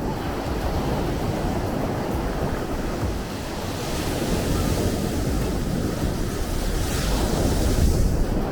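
Sea waves surging and washing in a continuous noisy wash over a deep low rumble; a wave's hiss swells about four seconds in and fades near the end.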